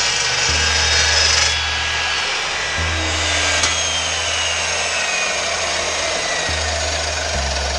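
Evolution slow-speed multi-material chop saw cutting through steel plate, a steady cutting noise with a thin whistle that falls slowly in pitch over the second half. Background music with a bass line plays under it.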